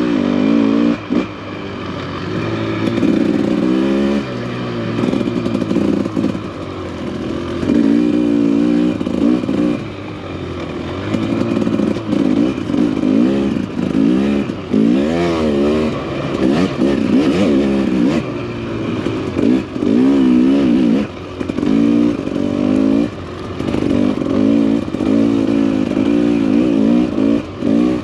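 Dirt bike engine under way on a trail ride, its pitch rising and falling over and over as the throttle is opened and rolled off, with clatter from the bike over rough ground.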